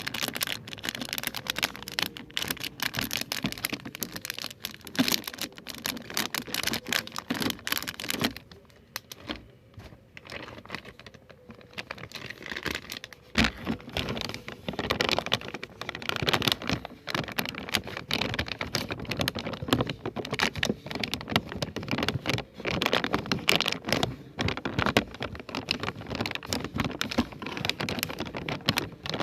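ASMR trigger sounds: dense, rapid crackling and clicking of objects being handled close to the microphone. The sound thins out about eight seconds in and picks up again around thirteen seconds.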